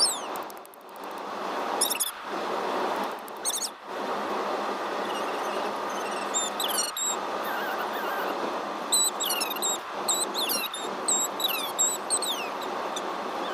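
Many short, high chirps, each falling quickly in pitch and coming in quick runs, typical of small birds calling. They sit over a steady rushing background noise.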